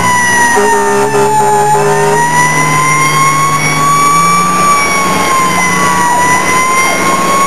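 Fire engine siren in a slow wail, its pitch gliding down and back up twice, over the truck's engine running. A steady lower tone sounds with it for about a second and a half near the start.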